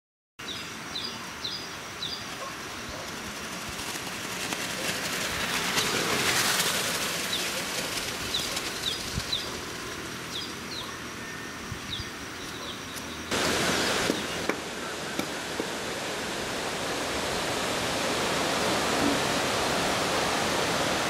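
A bird calling in series of short high chirps over a steady rushing background noise. The background changes abruptly about 13 seconds in and grows louder toward the end.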